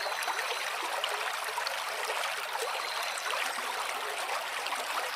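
Stream water flowing steadily, a continuous rush with many small splashes and gurgles.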